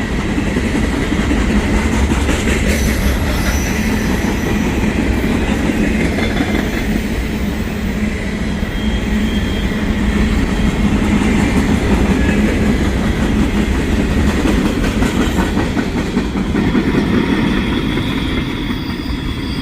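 Short ballast train rolling past, with a steady rumble of wheels on rail and clicking over the rail joints. Thin, high wheel squeals come and go.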